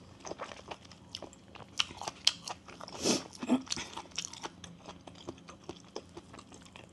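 Close-miked eating sounds: a person biting and chewing bamboo-shoot salad with sticky rice, with many irregular small crunches and wet mouth clicks, a few louder ones about halfway through.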